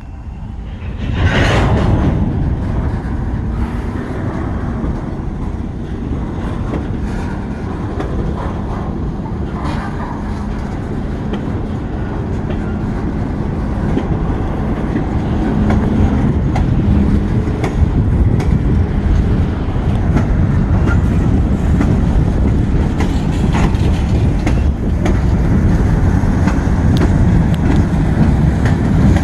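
Freight train rolling past, a steady heavy rumble with wheels clattering over the rail joints, growing a little louder toward the end.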